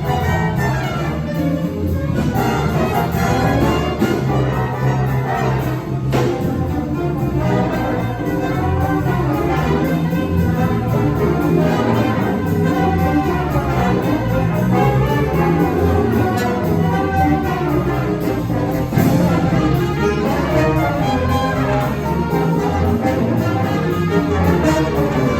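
A jazz big band playing at full strength, its brass section of trumpets and trombones to the fore over saxophones and rhythm section.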